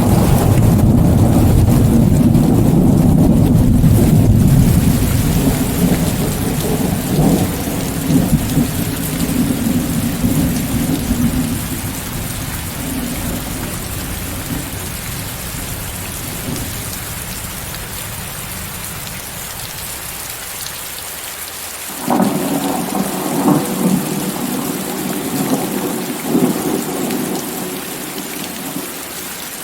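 Steady rain with a hiss of mixed-in white noise and rolling thunder. A long low rumble at the start dies away over about fifteen seconds, and a second rumble breaks in suddenly about two-thirds of the way through, then fades.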